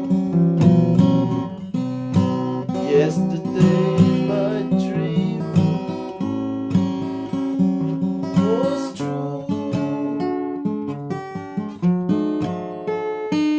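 Acoustic guitar music: chords strummed with steady, repeated strokes, changing every half second or so.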